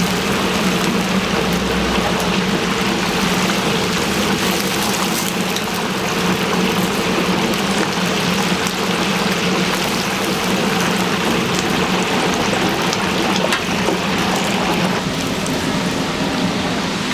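Chicken deep-frying in hot oil: a steady bubbling sizzle over a constant low hum.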